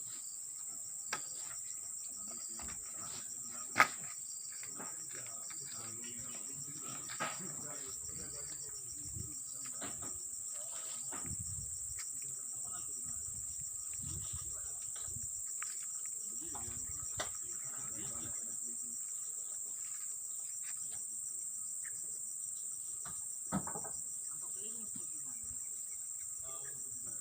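Steady high-pitched insect chorus with a faint even pulse, broken by a few scattered knocks, the sharpest about four seconds in.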